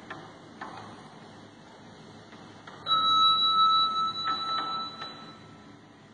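Heavy rain falling steadily, a continuous hiss with scattered clicks of drips. About halfway through, a loud, high ringing tone starts abruptly and fades over about two seconds.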